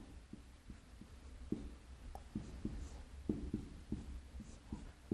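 A pen writing Chinese characters: an irregular series of short strokes and taps.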